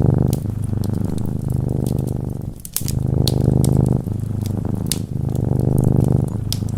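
A cat purring, a low rapid rumble that rises and falls in breath-long phrases of a second or two, with a brief break a little before the middle. Sharp crackles and pops of a wood fire come through it.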